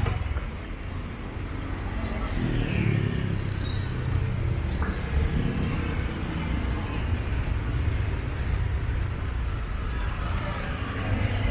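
Street traffic: the engines of passing motor vehicles make a steady low rumble, with one passing close about two to three seconds in.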